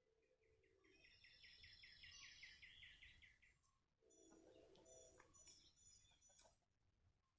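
Faint birdsong: a bird repeats a rapid series of a dozen or so quick notes, about four a second, for roughly three seconds. Other faint chirps and calls follow from about four seconds in.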